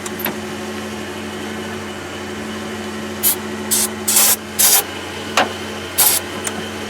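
An aerosol can of starter fluid sprayed in five short hissing blasts about halfway through, priming the engine for a start. A steady engine hum runs underneath the sprays.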